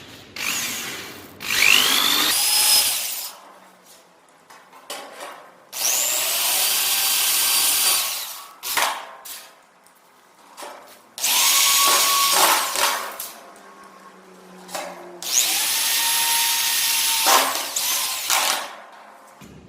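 Handheld electric power tool working the steel door frame in four runs of about two seconds each, its motor whine rising as it starts and falling as it stops, while fitting the lock onto the frame.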